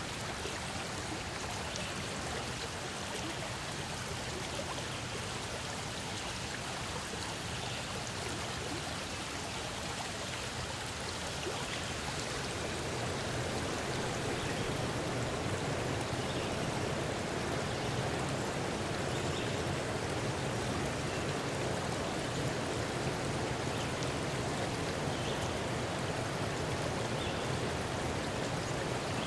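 Forest stream flowing in a steady wash of running water, swelling slightly about twelve seconds in.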